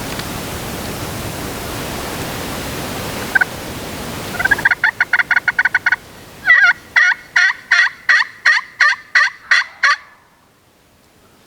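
A wild turkey gobbles, a fast rattling burst about halfway through. It is followed by a run of about ten evenly spaced yelps, each falling in pitch, about three a second, which stop abruptly near the end.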